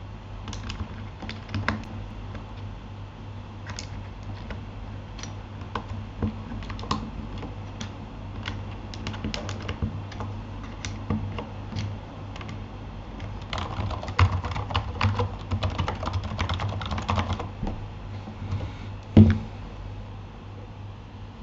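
Typing on a Keychron K8 mechanical keyboard fitted with Gateron Aliaz silent tactile switches. Keystrokes come scattered at first, then a fast flurry of typing in the middle, and one louder keystroke thump near the end.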